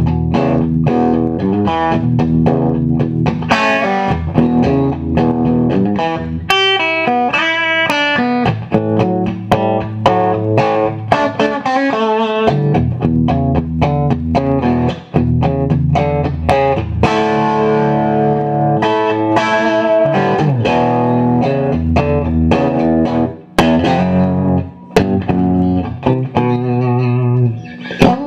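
1991 Fender '57 reissue Stratocaster on its bridge pickup, played straight into a Marshall Plexi amplifier: a run of strummed chords and single-note lines with some bent notes.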